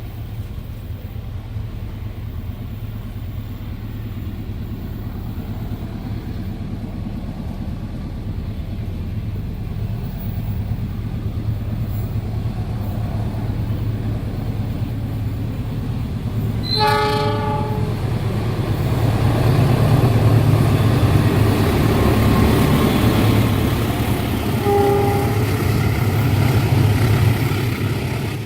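A train approaching and passing at speed, its low rumble building steadily and then loud as it goes by. A short horn blast sounds about two-thirds of the way in, and another brief horn note comes near the end.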